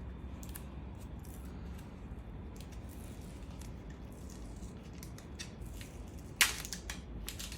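Small packaging being opened by hand: faint rustling and ticking, with one sharp, loud crackle about six and a half seconds in and a few more crackles near the end.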